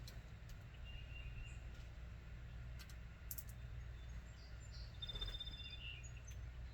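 Faint backyard bird calls: a few short chirps about a second in and a brief high whistled note near the end, over a steady low background hum, with a few sharp clicks midway.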